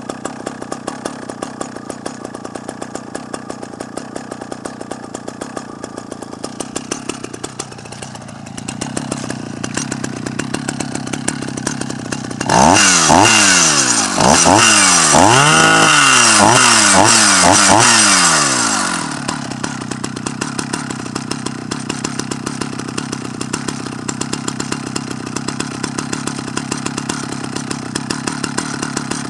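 Husqvarna L65 two-stroke chainsaw idling, then revved hard in several quick blips for about six seconds midway, each blip rising and falling in pitch, before dropping back to a steady idle.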